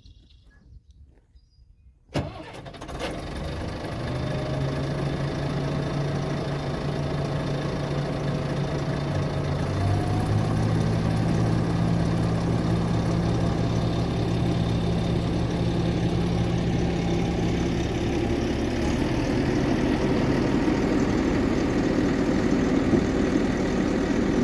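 Volvo A25 articulated dump truck's six-cylinder diesel engine starting suddenly about two seconds in, then running steadily. Its pitch steps up slightly about ten seconds in, and it grows rougher near the end.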